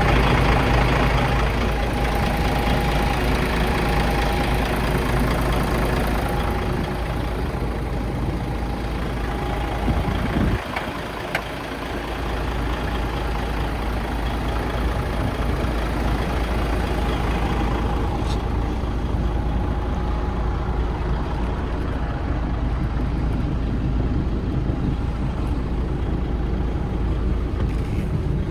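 DAF CF 85.360 truck's diesel engine running steadily at idle, with a steady whine on top. About ten seconds in there is a click and the low rumble briefly drops, then the engine carries on as before.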